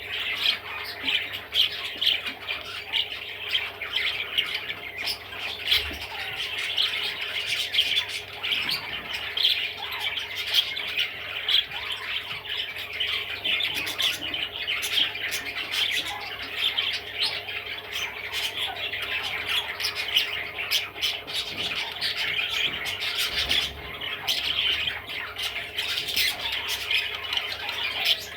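Budgerigar chattering without a break: a continuous stream of short, quick chirps and squawks.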